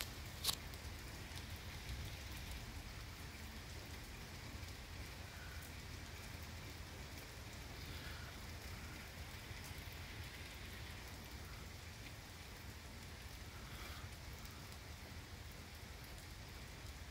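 Heavy rain falling steadily on the trees, with one sharp click about half a second in.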